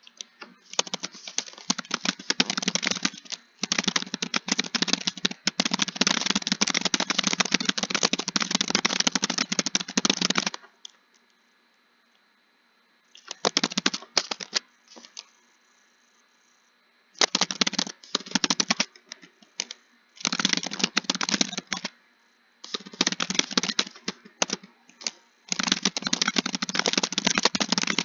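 Computer keyboard being typed on in fast runs of keystrokes, broken by pauses of a few seconds, the longest about a third of the way through.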